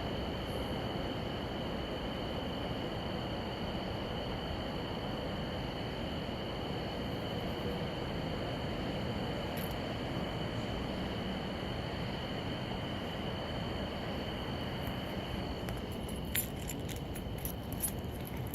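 Steady outdoor night ambience: insects droning at a constant high pitch over an even background hiss, with a few sharp clicks near the end. No thunder is heard.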